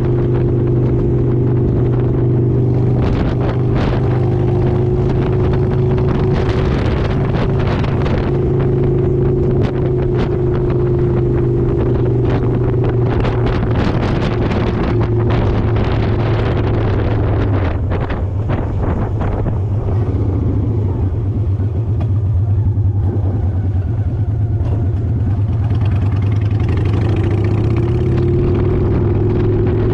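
Motorcycle engine running steadily at cruising speed, with wind gusting across the microphone. The engine note eases off a little past the middle and picks up again near the end.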